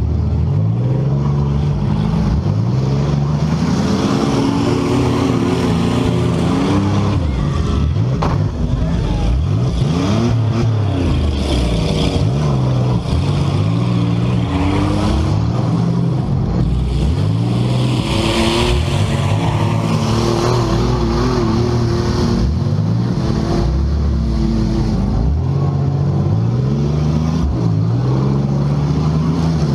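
Several compact demolition-derby cars' engines revving up and falling back over and over, their pitches overlapping. One sharp knock comes about eight seconds in.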